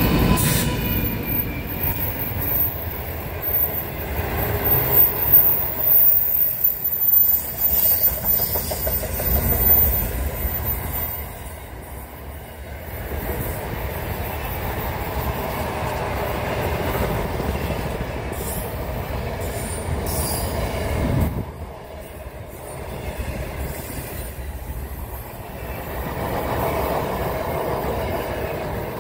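A train rolling past at speed: a steady rumble with the clatter of wagon wheels over the rails. It is loudest and most uneven in the first ten seconds, and drops for a moment about twelve seconds in and again about twenty-one seconds in.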